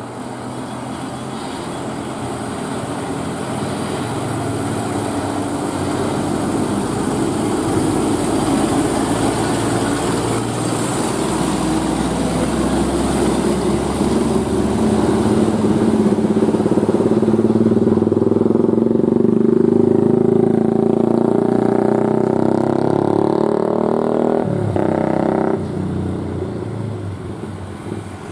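Vehicle engine running under road noise, growing steadily louder over about twenty seconds and then dropping off abruptly near the end.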